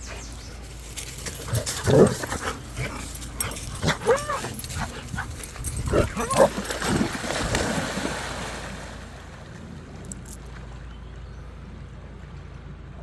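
A dog whining and yipping in short, high calls several times over the first eight seconds, then quieter.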